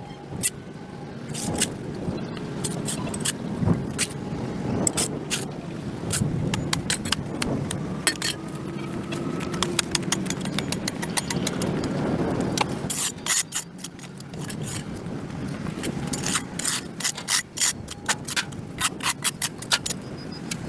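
A tool scraping packed dirt and grass off a concrete sidewalk, with many irregular rasping strokes and knocks over a low rumble. The strokes bunch up about thirteen seconds in and again near the end.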